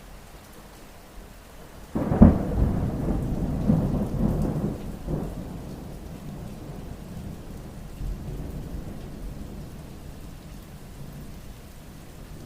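Steady rain with a sudden crack of thunder about two seconds in, rumbling on for a few seconds and slowly fading back under the rain.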